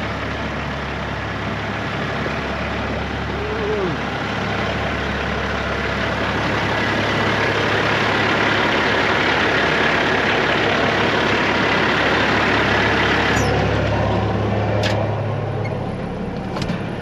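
Diesel engine of a 2004 Peterbilt 379 semi truck running steadily with a low hum, under road noise that swells and then drops away suddenly about 13 seconds in. A few sharp clicks near the end.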